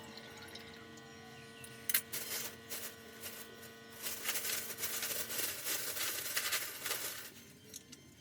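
Water rushing for about three seconds in the second half, with a sharp click about two seconds in and a steady hum that stops a little after five seconds.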